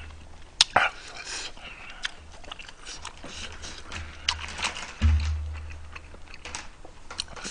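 Close-miked chewing of food, with a few sharp clicks near the start and a low thump about five seconds in.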